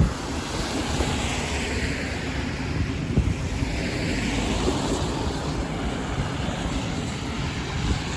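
Steady rumble of passing road traffic, its hiss slowly swelling and fading, with some wind on the microphone. A short bump right at the start.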